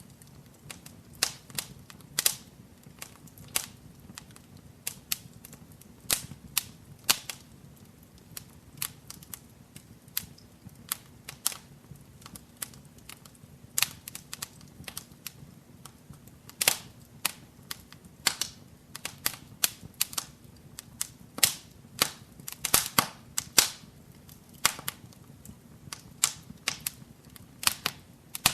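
Wood fire crackling in a fireplace: irregular sharp pops and snaps, a few a second with small clusters, over a faint low rumble of the flames.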